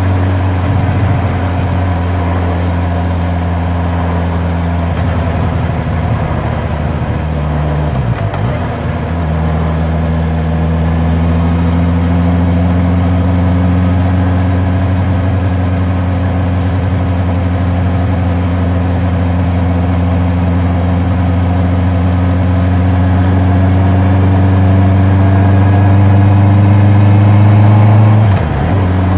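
Honda CB650R's inline-four engine and exhaust under way, its note slowly rising in pitch as the bike gathers speed. The sound dips briefly about eight seconds in and again near the end as the rider changes gear.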